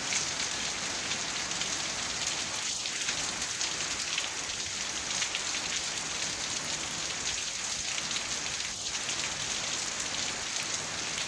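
Heavy rain pouring down steadily, a dense hiss with the patter of many drops striking surfaces.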